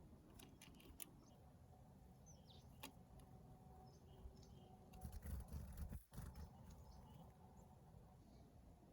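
Small songbirds chirping faintly outdoors: a few short high calls and a falling chirp a couple of seconds in, with a brief low rumble about five seconds in.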